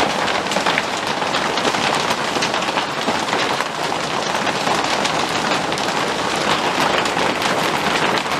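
Heavy rain coming down hard: a loud, steady, dense patter of many big drops.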